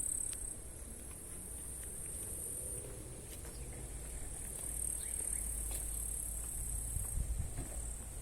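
Chorus of crickets or bush crickets: a steady high-pitched chirring that fades a little after the first moment and swells again about five seconds in, over a low rumble.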